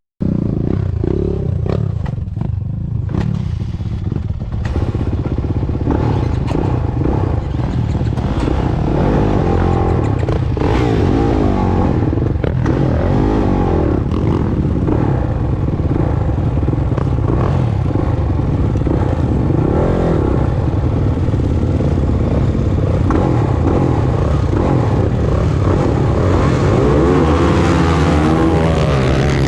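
Dirt bike engine running loud while riding, its revs rising and falling over and over through the gears and turns. The sound starts abruptly as the engine is already running.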